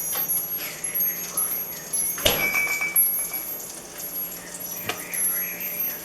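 A couple of sharp clinks of hard objects, the first followed by a short ringing tone.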